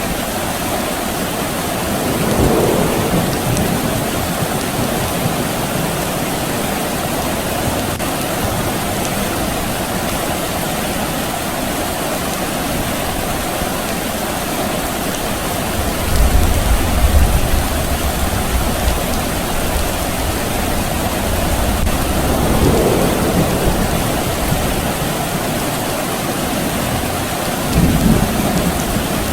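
Steady rain falling, with distant thunder rumbling low, loudest about halfway through and again briefly near the end.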